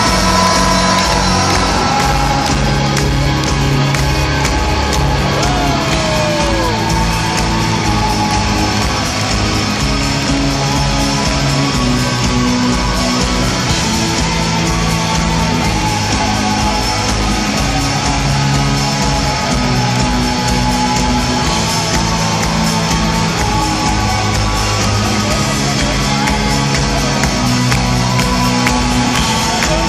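Live rock band playing with a steady driving beat and a moving bass line.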